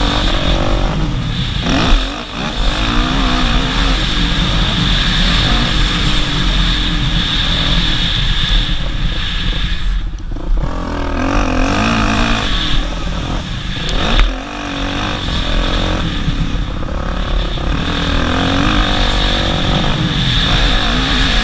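Dirt bike engine revving hard and rising and falling in pitch with the throttle as it is ridden, heard from the bike itself. The throttle is chopped briefly after a peak about two seconds in and again about fourteen seconds in.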